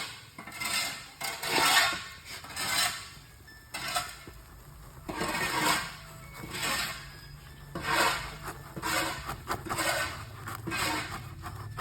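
Repeated scraping and rustling strokes, about one a second, with a sharp click a little before the four-second mark.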